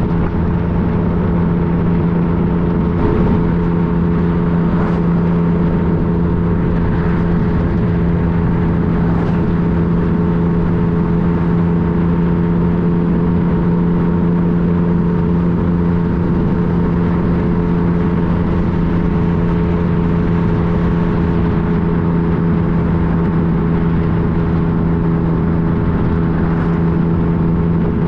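2015 Yamaha FJ-09's three-cylinder engine running at a steady, unchanging pitch while cruising, with a constant rush of wind and road noise.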